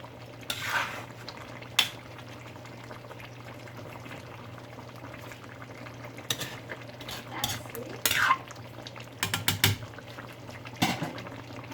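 Metal utensil clinking and scraping against a cooking pot while curry with potatoes is stirred: scattered sharp knocks and brief scrapes, with a quick run of clinks near the end, over a steady low hum.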